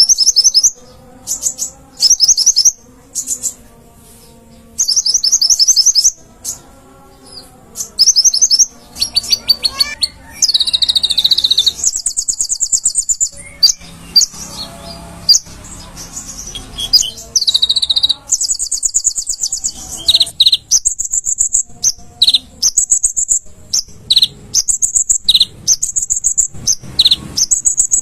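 A konin (kolibri ninja sunbird) singing energetically in very high, rapid chattering trills, delivered in short bursts with brief pauses and a few longer runs of trilling.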